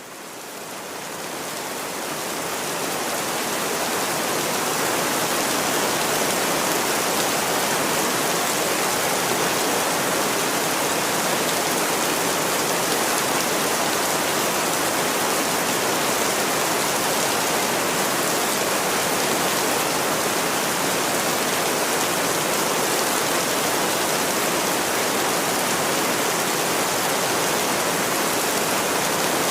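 Steady heavy rain, an even hiss with no distinct drops, fading in over the first few seconds and then holding level.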